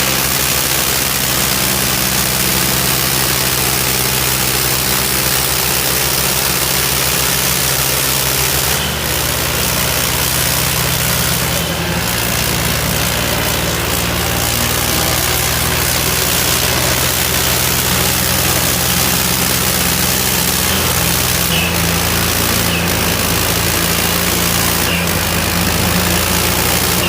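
Diesel tractor engines running steadily under load, their note shifting several times, over a loud steady hiss.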